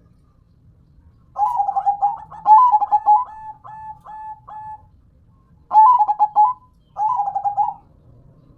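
Zebra dove (perkutut) cooing its 'manggung' song: a long phrase of rapid trilled coos that breaks into separate notes near its end, followed by two short trilled phrases.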